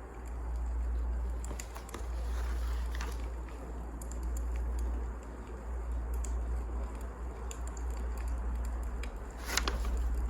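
Wood fire crackling, with scattered small pops and a louder crack near the end, over a low steady rumble.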